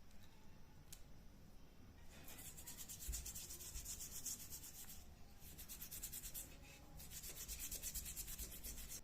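Hand sanding of a metal jack part, quick back-and-forth strokes in three runs with short pauses between.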